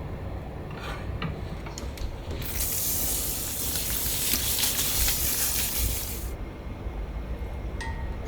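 A loud, even hiss that starts abruptly about two seconds in, runs for about four seconds and stops abruptly, over a steady low rumble. A few light clicks come before it and a short electronic beep near the end.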